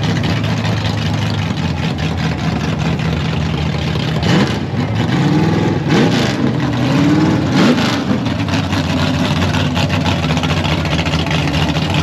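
Fox-body Ford Mustang drag car's engine idling, then revved several times in the middle, the pitch rising and falling with each blip of the throttle before it settles back to a steady idle.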